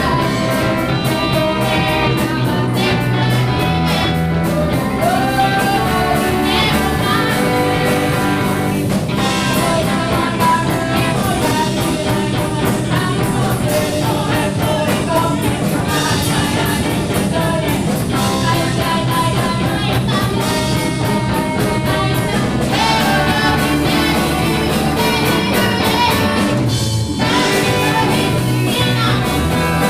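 Band music with guitar and drums, playing continuously at a steady level.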